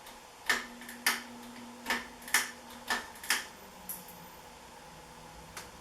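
1984 Four Seasons Victorian ceiling fan running on low speed: a faint steady motor hum that drops in pitch about three seconds in, under about seven sharp, irregularly spaced clicks.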